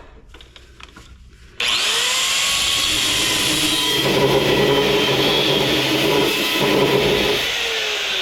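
A handheld power tool starts abruptly about a second and a half in and runs at full speed cutting through scrap metal. It sounds heavier under load for a few seconds, then winds down with a falling pitch near the end.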